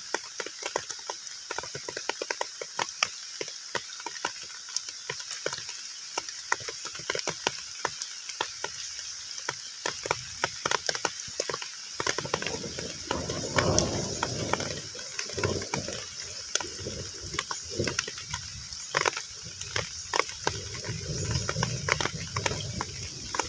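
Heavy rain falling on a pond: a steady hiss with a dense, irregular patter of drops hitting the water. From about halfway, a low, uneven sound joins in under the rain.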